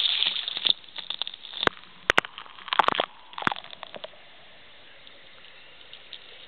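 Water splashing and sloshing in a hot-spring soaking tub. A rushing gush cuts off under a second in, a few sharp splashes follow over the next couple of seconds, and then only a faint steady hiss remains.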